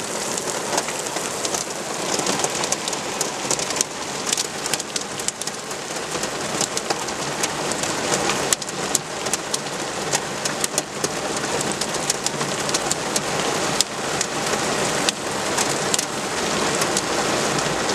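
Heavy rain mixed with small hailstones of about 1 cm falling: a dense steady hiss of rain, with many sharp ticks of hail striking hard surfaces.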